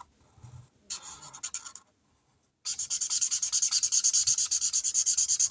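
A pen or marker scribbling fast back and forth on paper over a clipboard, colouring in a square. A few light strokes come about a second in, then a brief pause, then steady rapid scribbling from about halfway through.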